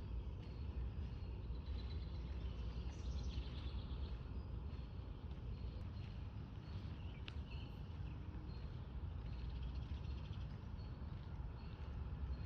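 Small birds chirping and twittering faintly in short calls over a steady low rumble.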